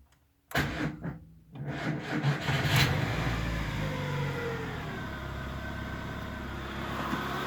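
VAZ 21104 1.6-litre 16-valve four-cylinder engine starting: the starter cranks for about a second, the engine catches and revs up briefly, then settles into a steady idle.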